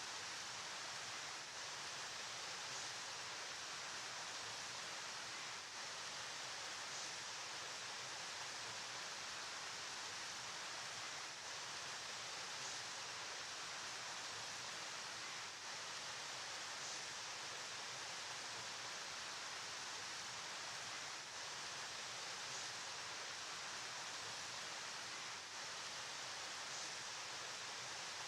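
River water flowing: a steady, even rushing hiss with no breaks or separate splashes.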